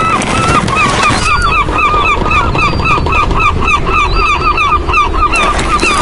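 A flock of flamingos honking: many short, nasal, goose-like calls, about five a second and overlapping from several birds.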